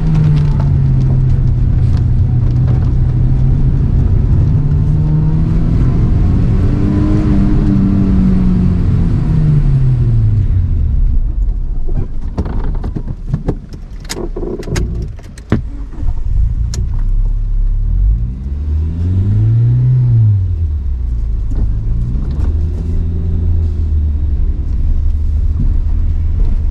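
Toyota AE111 Trueno's four-cylinder engine heard from inside the cabin on a wet sprint run, held high in first gear, then climbing and falling. About halfway the engine note drops away, with a few sharp knocks and clicks. After that it revs briefly once and settles to a steady lower note.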